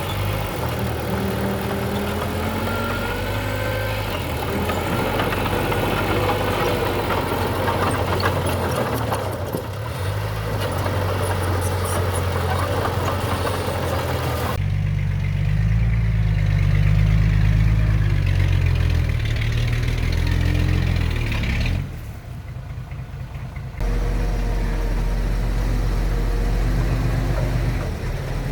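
Diesel engines of heavy earthmoving machinery running under load, a low steady engine note with slow shifts in pitch. The sound changes abruptly about halfway through, drops away for a couple of seconds near the last quarter, then comes back.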